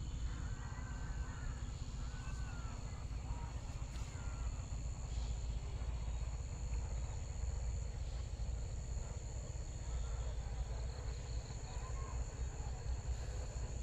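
Insects trilling steadily at a high pitch over a constant low rumble. A few faint wavering chirps come in the first few seconds.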